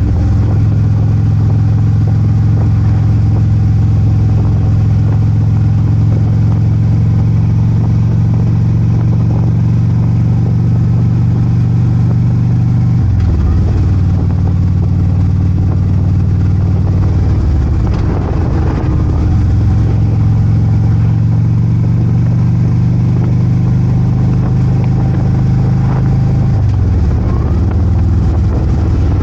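Harley-Davidson Ultra Limited's V-twin engine running under way at a steady cruise. The engine note briefly dips and climbs back several times, at about 13, 19 and 27 seconds in.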